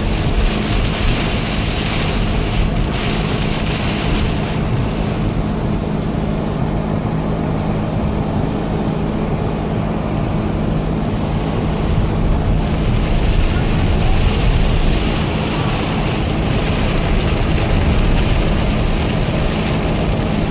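Steady rush of heavy rain and wet-road noise inside a moving car, with a low, even engine hum.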